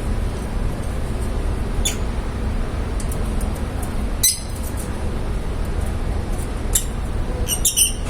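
Lovebirds giving short, high-pitched chirps, a few scattered ones and then a quick cluster near the end, over a steady low rumble of background noise.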